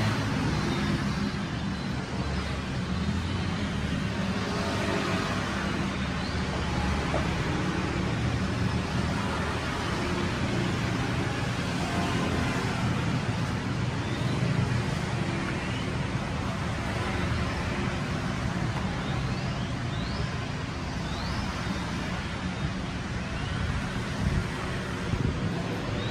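Steady road traffic noise, a continuous rumble of passing engines.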